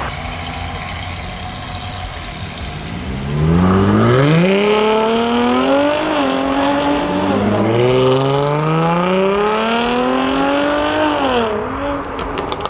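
A performance car's engine rumbling low, then accelerating hard from about three seconds in. It revs up through the gears, with a shift a little past halfway, and backs off near the end.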